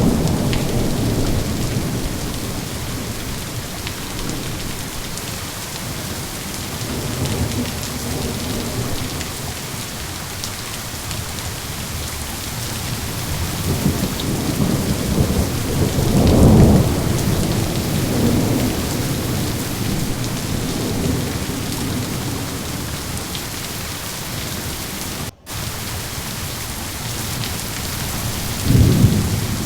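Steady rain falling with rolling thunder that rumbles low and swells several times, loudest about halfway through and again near the end. The audio drops out for an instant about 25 seconds in.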